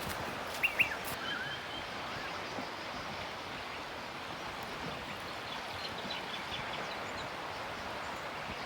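Steady rushing outdoor background noise, with a few short bird chirps about a second in and fainter ones a few seconds later.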